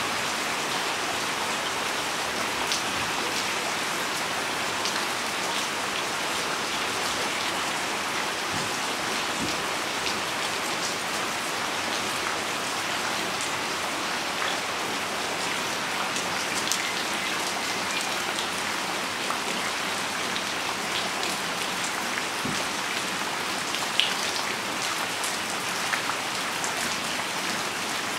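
Steady rain falling on a wet paved yard and potted plants: an even hiss dotted with sharp ticks of single drops, with one louder drop near the end.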